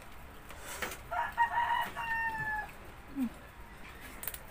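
A rooster crowing once, beginning about a second in: a choppy start that breaks into a held, slightly falling final note, about a second and a half in all.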